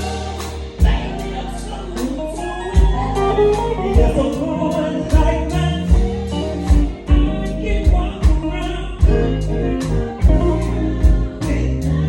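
Gospel band music: electric guitar and bass over a steady drum beat, with some singing.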